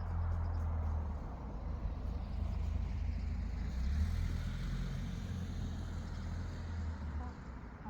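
A motor vehicle passing: a low engine rumble with tyre hiss that swells to a peak about four seconds in, then fades out near the end.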